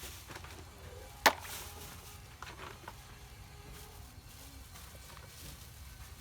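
A single sharp knock about a second in, followed by a few fainter clicks, over a low steady hum.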